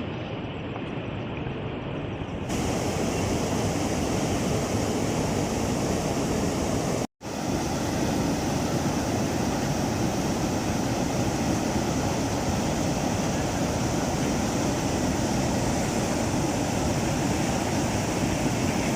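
Steady rush of floodwater, heard as a dense, even noise. It gets louder about two and a half seconds in and drops out for an instant about seven seconds in.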